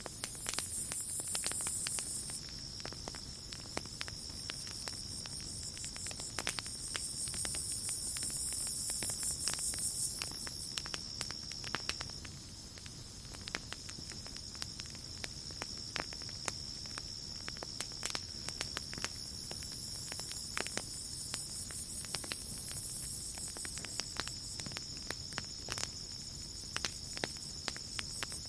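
Campfire crackling with irregular sharp pops, over a steady high trill of crickets. A second, higher insect chorus swells in and fades three times.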